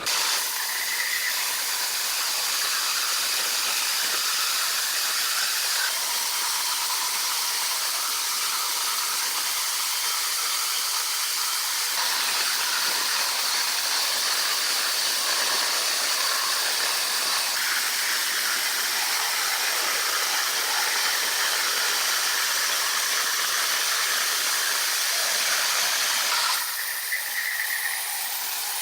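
A steady hiss, high in pitch with no low rumble, that drops in level and changes character suddenly about two seconds before the end.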